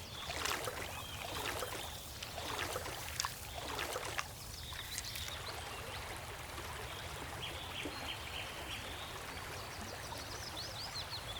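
Faint shallow-water sounds of swamp water splashing and trickling, with a few brief bird chirps near the end.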